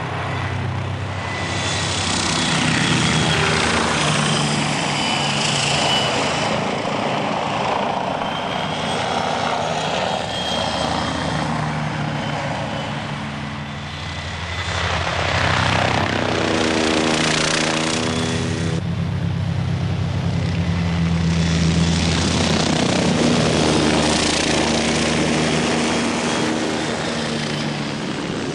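Helicopter rotor and engine running as it flies close by. The sound swells and fades as it passes, dropping about halfway through and then growing loud again.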